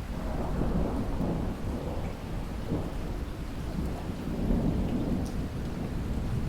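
Thunder rumbling low and long over steady rain; the rumble swells at the start and keeps rolling.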